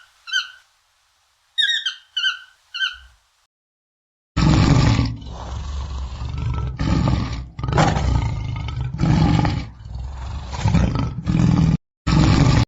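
Two runs of three short, high-pitched calls, then from about four seconds in a large animal roaring in long, rough stretches with brief breaks.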